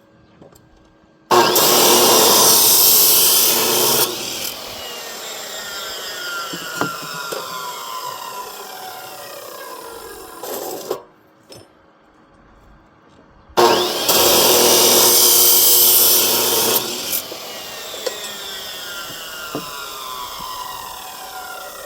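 Power saw making two cuts of about three seconds each, each time followed by a falling whine as the blade spins down after release.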